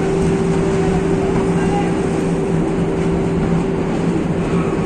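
Steady loud industrial hum of steel melt-shop machinery around the melting furnace: two constant droning tones over a continuous rumble.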